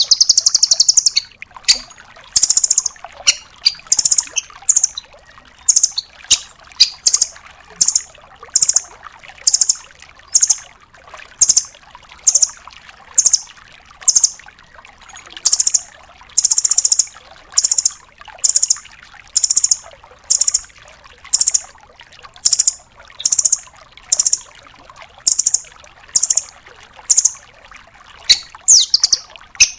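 Velvet-fronted nuthatch calling: short, loud, high-pitched notes repeated about once a second, with a longer run of notes at the start and a quick cluster near the end.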